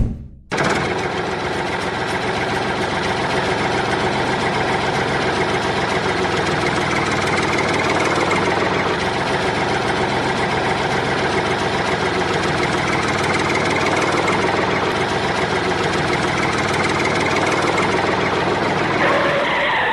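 Tractor engine running steadily at an even pitch. It starts about half a second in and cuts off abruptly at the end.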